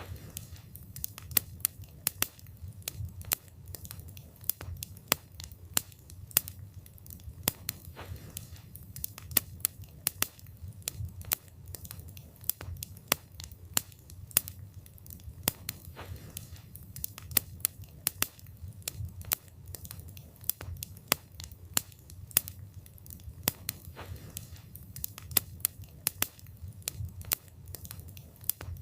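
Wood fire crackling: irregular sharp pops and snaps of burning wood, several a second, over a low steady rumble of the flames.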